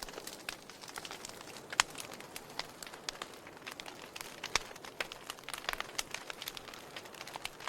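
Wood fire crackling in a fireplace: irregular snaps and pops over a soft hiss, with a sharper pop about two seconds in and another about halfway through.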